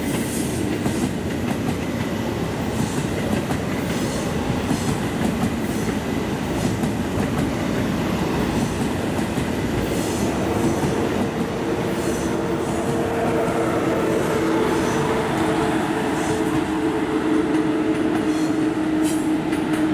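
ICE high-speed train rolling past at close range, a steady rumble of wheels on rails with light clicking over rail joints. From about halfway a steady squeal of the wheels joins in and grows as the train runs through the curve.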